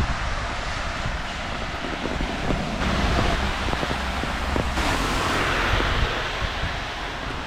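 Heavy rain falling, a steady hiss with scattered drips tapping close by. The hiss swells briefly about five seconds in.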